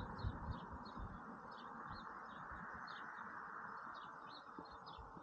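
Small birds chirping: short, high chirps repeated about three or four times a second, fairly faint, over a steady background hiss.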